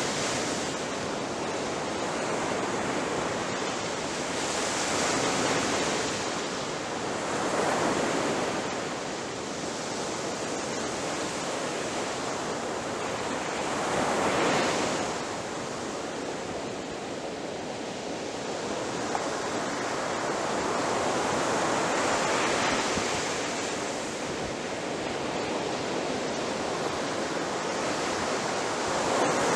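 Ocean surf on a shore: a continuous hiss of water, with waves breaking in louder surges about five times.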